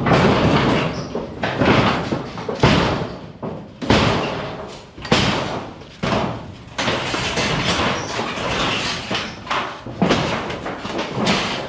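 A series of heavy thuds and knocks at irregular intervals, each dying away over a second or less.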